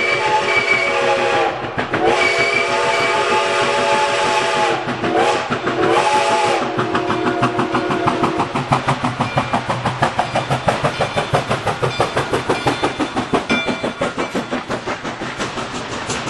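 Excursion train's whistle sounding several tones together: a long blast, a second long blast, then two short ones. A rhythmic beat of about three a second follows as the train runs on.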